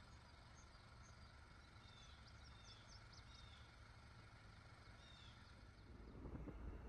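Near-silent open-field ambience with a few faint, high bird chirps. Near the end, wind starts rumbling on the microphone.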